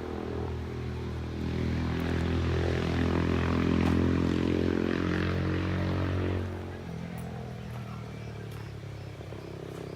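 An engine running steadily, growing louder about a second and a half in and dropping back quieter after about six and a half seconds.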